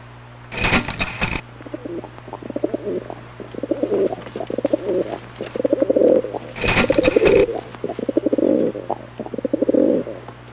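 Rock pigeon cooing in a run of low, repeated phrases. Two short, sharp noisy bursts are heard, one about half a second in and one a little past halfway.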